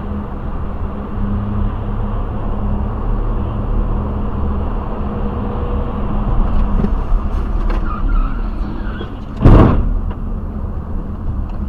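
Steady road and engine rumble of a moving car, recorded by a dashcam inside it, with a sudden loud bang about nine and a half seconds in: a collision.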